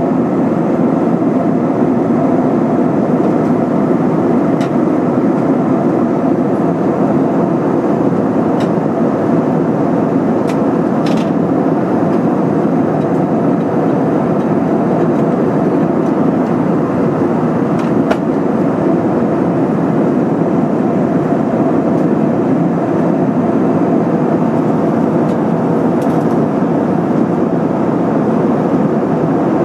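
Steady in-flight cabin noise of an Airbus A320-232: an even rush of airflow and engine noise from its IAE V2500 turbofans, with a few faint ticks.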